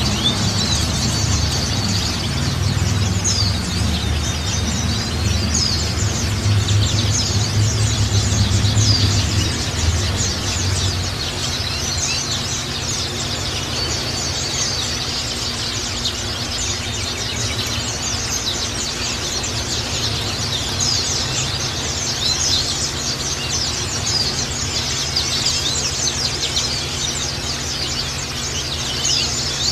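Several white-eyes (pleci) giving a dense chorus of rapid, high chirps with a few short gliding whistles, the kind of lure song played to get caged white-eyes to answer. A low hum sits underneath, easing off about ten seconds in.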